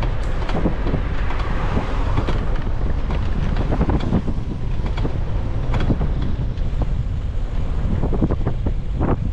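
Wind buffeting the microphone of a camera riding on a moving bicycle: a steady low rumble, with scattered sharp clicks and rattles throughout.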